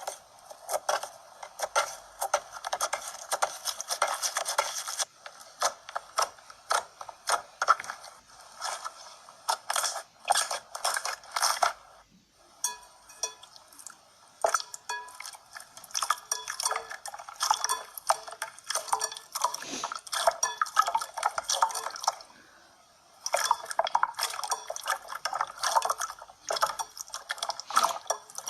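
Slime being squeezed and pressed by hand, a dense run of wet clicks and small pops, with brief breaks about twelve and twenty-two seconds in.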